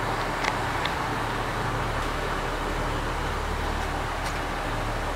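Steady low hum of a diesel train idling while held at the station, under an even hiss, with a few faint clicks.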